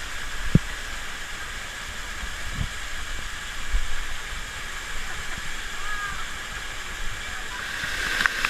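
Waterfall's falling water giving a steady rushing hiss, with a few low thumps, the loudest about half a second in.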